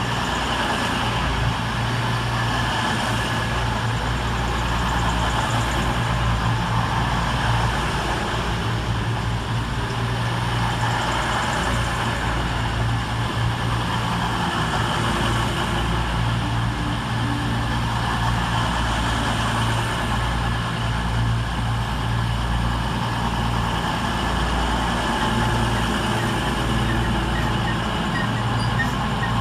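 Class 220 Voyager and Class 221 Super Voyager diesel multiple units running on their underfloor diesel engines, a steady low engine note with no clear rise or fall.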